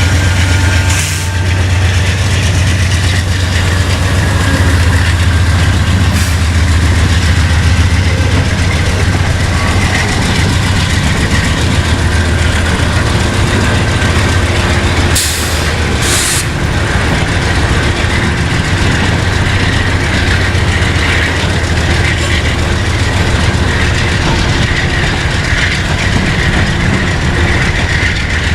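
Norfolk Southern freight train rolling past, a steady low rumble of wheels on rail with a faint high-pitched whine. Two sharp clicks about a second apart come midway.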